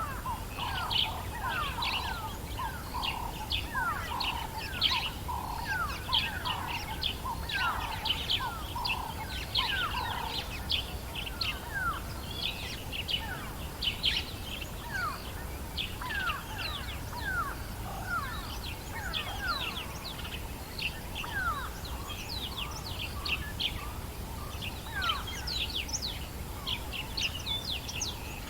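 Dawn chorus of many birds in the African bush: overlapping short chirps and quick falling whistles, dense and continuous. For the first ten seconds a lower note is repeated over and over beneath them, and a faint steady low rumble runs under it all.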